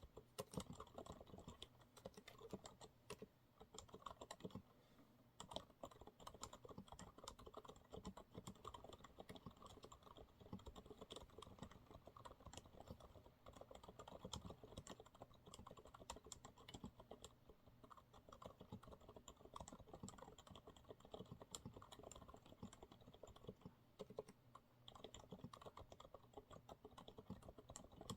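Continuous typing on a Monsgeek MG108W keyboard with TTC silent brown (low-noise tactile) switches: a steady, irregular run of quiet keystrokes, easing briefly about four seconds in before picking up again.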